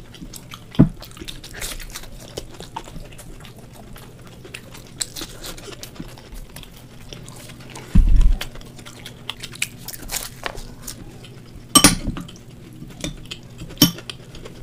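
Close-up chewing and biting into crisp fried dal kachori, with many small crunches and wet mouth clicks. There are several louder sharp crunches, and a dull thump about eight seconds in.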